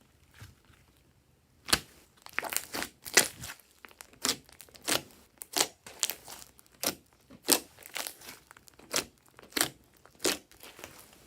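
Glossy slime being worked by hand, giving a regular series of short, sticky crackles and pops, about one every two-thirds of a second.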